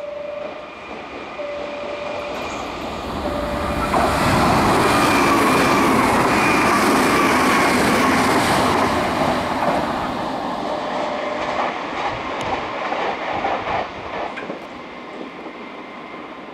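Nankai 50000 series Rapi:t electric train passing through the station close by, wheels clacking over the rail joints and a motor whine falling in pitch, loudest from about four to ten seconds in. Short tones repeat about every two seconds before it arrives.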